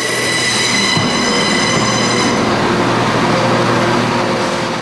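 Passenger train pulling into the station with a steady high-pitched squeal that fades away about halfway through, over a steady low drone.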